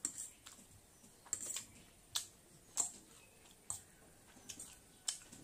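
Wet, irregular smacking and clicking of a mouth chewing noodles, the open-mouthed "chyak chyak" eating noise of a mukbang, about a dozen sharp smacks at uneven intervals.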